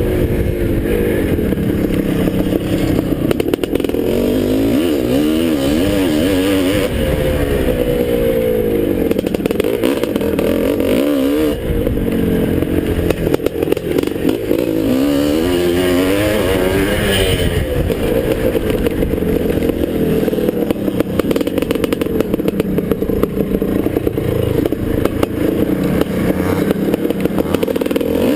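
1981 Husqvarna 430 two-stroke single-cylinder dirt bike engine racing over a motocross track. The revs climb and drop again and again as the throttle is opened and closed through the gears.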